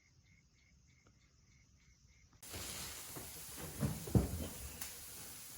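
Faint chirping repeating about three times a second, then, about two and a half seconds in, a sudden loud sizzle of shrimp frying in hot oil, with a few low knocks near the middle.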